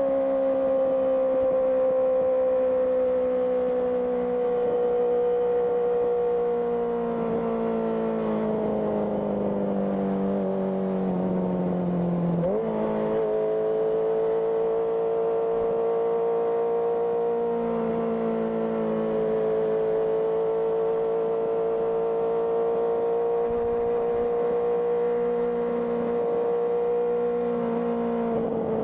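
Honda CBR650R's inline-four engine through an IXIL IXRACE aftermarket exhaust, running under way on the road. The engine note sags slowly for about twelve seconds, jumps sharply back up about halfway through, then holds fairly steady.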